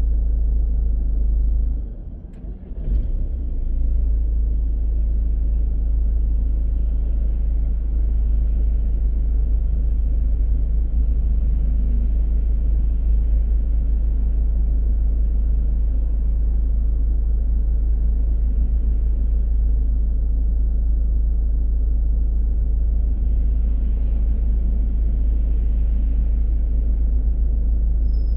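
Car driving at night, a steady deep rumble of road and engine noise. The rumble briefly drops and crackles about two seconds in, then carries on unchanged.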